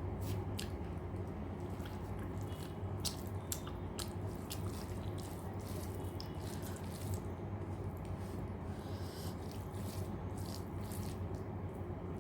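Close-up chewing and wet mouth sounds of someone eating rice and dal, with many short irregular clicks, over a steady low hum.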